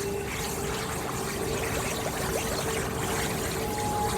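Bubbling, watery underwater ambience with a cluster of short rising bubble chirps around the middle, over a soft steady held tone; a second, higher tone comes in near the end.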